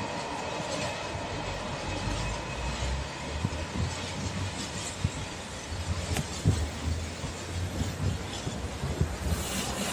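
Freight train rolling past, a steady rumble of wagons on the rails with scattered sharp knocks from the wheels.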